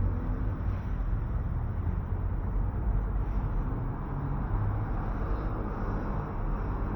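City street ambience dominated by road traffic: a steady low noise of cars passing, with no single event standing out.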